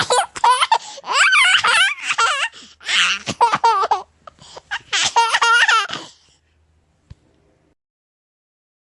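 A baby laughing in a string of high-pitched bursts, which stops about six seconds in.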